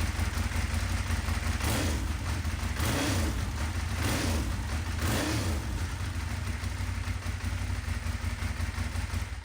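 Ducati Monster S2R 1000's air-cooled L-twin engine running, revved about four times a second or so apart in the first half, then settling before fading out at the end.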